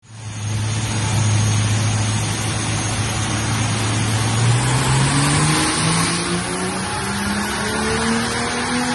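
Turbocharged BMW N55 straight-six running on a chassis dyno. It holds steady revs for about four and a half seconds, then the revs climb steadily through the rest: the start of a full-throttle dyno power run. The engine is fitted with a Hypergear high-flow turbocharger and a 4-inch downpipe.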